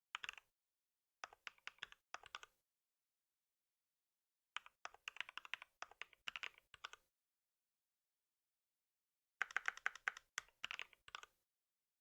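Typing on a computer keyboard: four short runs of rapid keystrokes, with dead silence between the runs.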